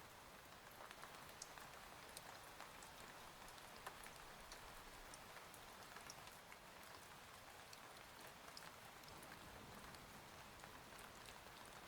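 Faint steady rain, with many scattered sharp ticks of single drops striking a hard surface.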